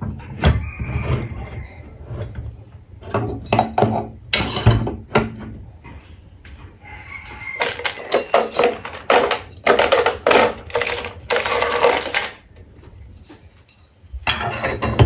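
Workshop clatter: irregular knocks and taps of tools and wooden or metal parts being handled, in bursts, the busiest run lasting several seconds.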